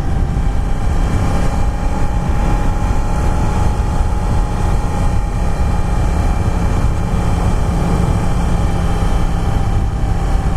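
Yamaha FZ-10's inline-four engine running at a steady cruise under heavy wind rush on the helmet microphone; its pitch rises gently and then eases back.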